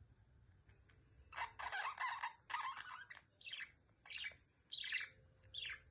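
Budgerigar chirping: a run of about seven short calls in quick succession, starting about a second in.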